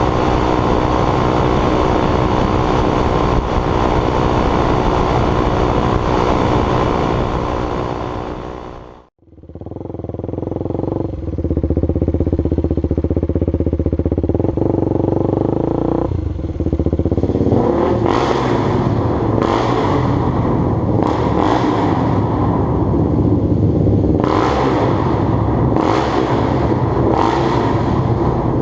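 KTM Duke 390's single-cylinder engine running through a free-flow Moto Torque aftermarket exhaust, steady at first, then fading out briefly about nine seconds in. When it returns it is revved in a run of short throttle blips, roughly one a second, through the second half.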